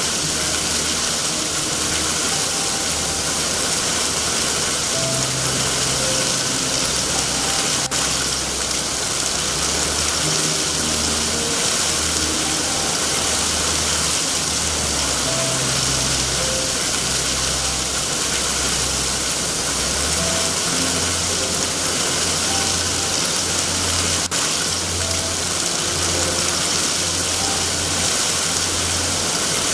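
Steady heavy rain hiss with a low, uneven rumble underneath and two sharp clicks, one about a third of the way in and one near the end.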